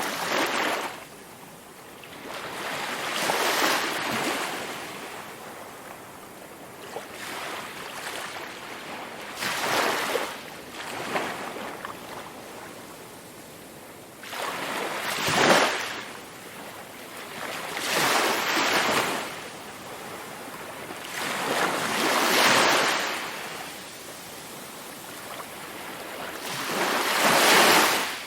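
Sea waves breaking on a shore, each one a rush of surf that swells and fades, about every four to six seconds.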